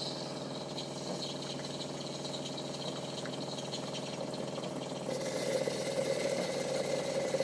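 Jura C9 automatic coffee machine running its rinse cycle before shutting down, a steady mechanical hum of its pump that grows louder about five seconds in.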